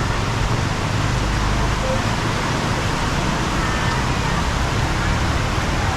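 Steady hiss of heavy rain, mixed with the sound of road traffic.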